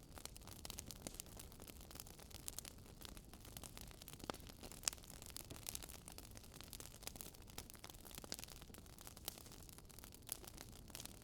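Wood fire crackling faintly, with irregular sharp pops and snaps over a low hiss.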